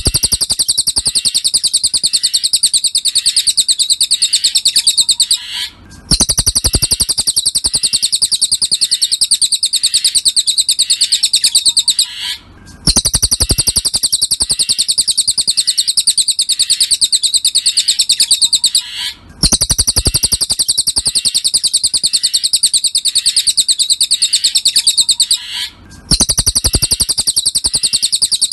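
Cililin bird song: a fast, unbroken high chattering trill in long phrases, each cut by a short pause about every six and a half seconds.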